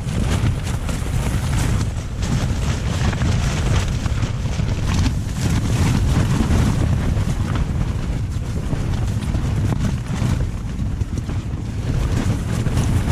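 Strong gusting wind battering a tent, the fabric flapping and snapping again and again over a heavy low rumble of wind on the microphone.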